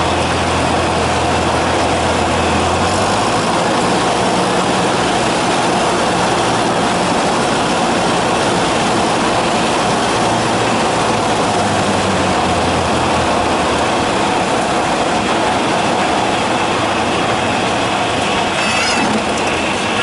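Cessna 172's four-cylinder Lycoming engine and propeller heard inside the cabin: a loud, steady drone with a low hum that drops in pitch about three seconds in.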